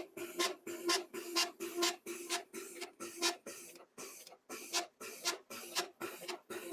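Konica copier's document feeder running paper: a motor hum with a sharp rasping stroke about twice a second. This is the abnormal feeding noise, which the repairer traces to a tight front cleaning roller whose bushings need oil.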